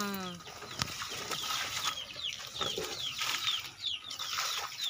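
Birds chirping: a run of short, high, falling chirps, a couple a second, getting busier near the end. A single knock about a second in.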